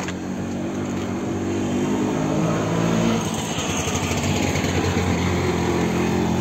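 A motor vehicle's engine runs close by, growing a little louder over the first three seconds before blending into a more even rushing noise.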